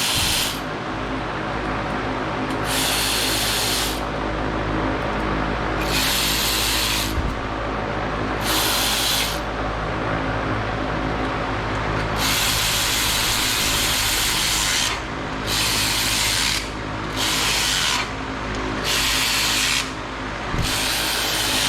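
Power tool driving bolts on a 5.7 Hemi engine in short repeated bursts of one to three seconds, about eight times, over a steady low shop hum. The bolts are being run down snug before being torqued with a torque wrench.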